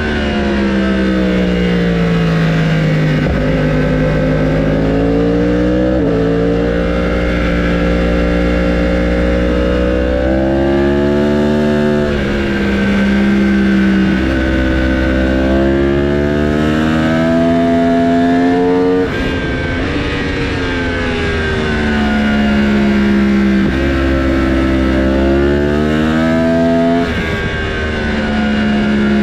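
Loud Yamaha racing motorcycle engines running at speed on a race track. The engine pitch keeps rising and falling, with sudden jumps every few seconds as the bikes shift gear and pass by.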